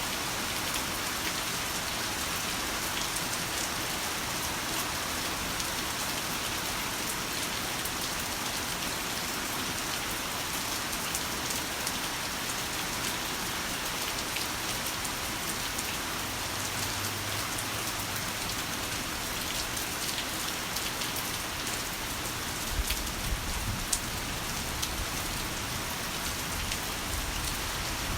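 Heavy rain falling steadily, a dense hiss with many sharp drop impacts on a hard surface. About three-quarters of the way through come a few brief low thuds.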